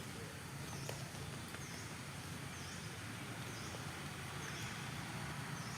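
Steady outdoor ambient noise with a faint low hum, and a faint high chirp repeating about once a second, like a distant bird or insect.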